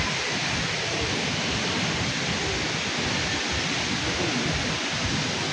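Steady rush of falling water from Thomson's Falls, a large waterfall: an even, unbroken noise with no distinct events.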